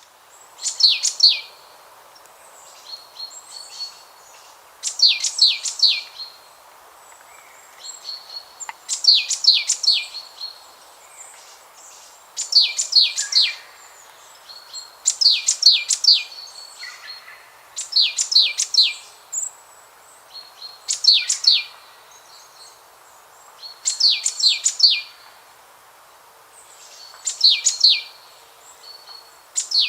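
A songbird repeating the same short, rapid, high-pitched song phrase about every three seconds, over a steady background hiss.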